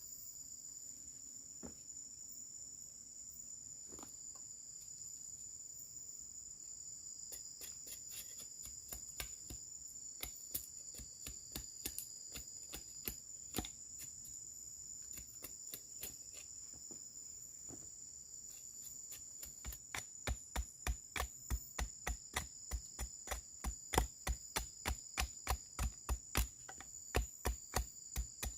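Chopping strikes on wood: faint knocks begin about a quarter of the way in and build to strong, even blows about three a second over the last third. Under it runs a steady high-pitched insect chorus.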